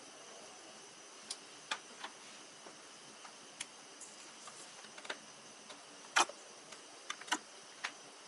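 Scattered small clicks and crackles at irregular intervals over a steady faint hiss, the loudest a little past six seconds in.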